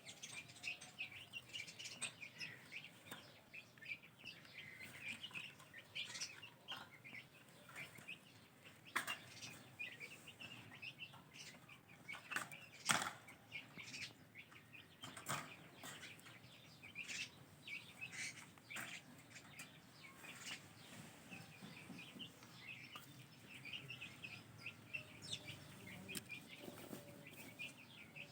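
Ringneck parrot chicks chirping in quick, faint runs of short calls, the begging calls of chicks at hand-feeding, with sharp clicks now and then.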